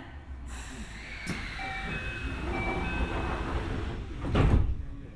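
Keio 1000 series train doors closing: the door chime beeps twice over a hiss of air, then the doors slide shut with a heavy thump about four and a half seconds in.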